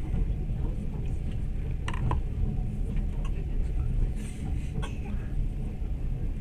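Moving passenger train heard from inside the carriage: a steady low rumble, with a few light clicks and knocks about two seconds in and again around five seconds.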